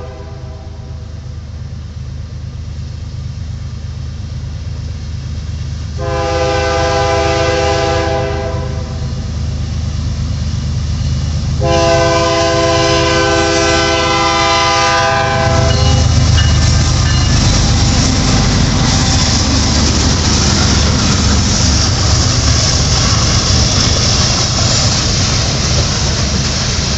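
Canadian National freight locomotive's chord horn: one blast fading out at the start, a shorter blast about six seconds in and a longer one about twelve seconds in. After that the locomotives pass close with a loud, steady diesel rumble and the clatter of the freight cars rolling by.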